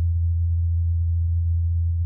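A steady, deep electronic drone: a single low hum that holds one pitch without change.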